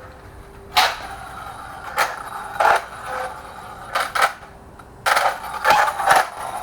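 Objects being handled and set down on a workbench: a series of short, irregular clicks and clunks, about eight in all, with two close together around four seconds in and a busier cluster near the end.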